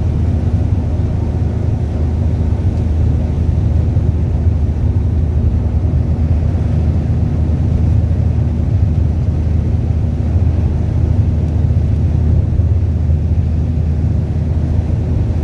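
Heavy rain, heard as a loud, steady low rumble with little hiss.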